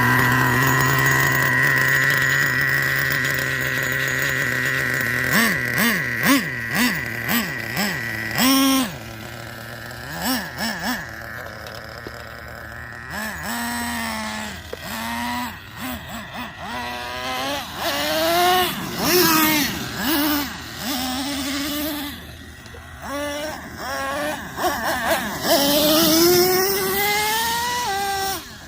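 Traxxas Nitro Revo 3.3's 3.3 cc two-stroke nitro engine idles steadily for a few seconds, then revs up and down in repeated short bursts as the truck is driven. Near the end come longer climbs to high revs.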